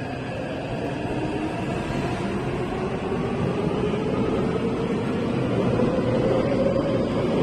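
Electric train running, with a whine slowly rising in pitch over a steady rumble, growing louder.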